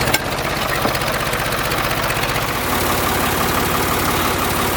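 Tractor engine running steadily at low speed, with a sharp click just after the start; the engine note shifts slightly about halfway through.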